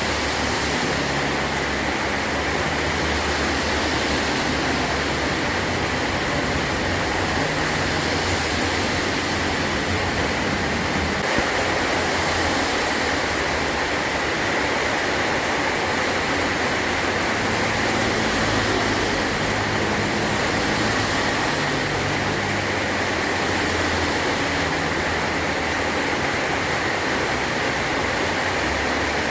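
Heavy rain drumming steadily on a metal tin roof, an even unbroken hiss with no single drops standing out.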